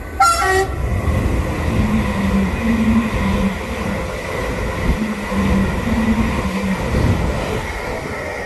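Greater Anglia electric train going through the station with loud rumble and wheel noise. Its two-tone horn sounds repeatedly, alternating high and low notes, from about two seconds in to near the end.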